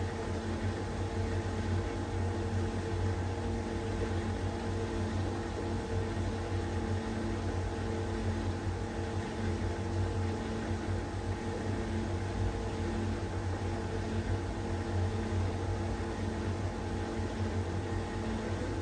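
LG heat pump dryer running steadily in its cool-down and condenser-cleaning stage: a constant low hum with a few steady tones over the noise of the turning drum and fan.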